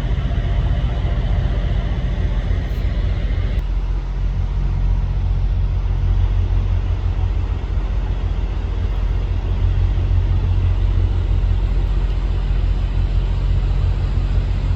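Steady, loud low rumble of outdoor background noise with a hiss above it; the hiss drops a little about three and a half seconds in.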